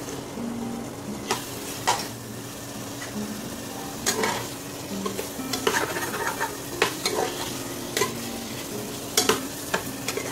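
Soya-chunk and pea masala sizzling in a pressure cooker while a ladle stirs it, scraping and knocking sharply against the pot a dozen or so times.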